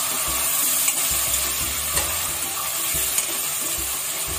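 Chopped onions and tomato sizzling in hot oil in a kadhai while being stirred with a steel ladle, with a few light clicks as the ladle meets the pan. This is the onion-tomato base being fried for a curry.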